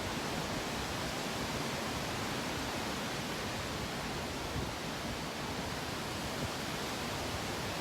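Steady, even hiss of background noise with no distinct sound events, and a faint soft knock or two.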